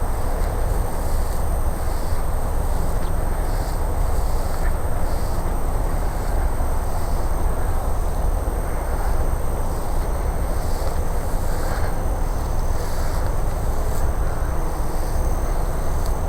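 Wind buffeting the microphone: a steady low rumble with no breaks, with a faint steady high whine above it.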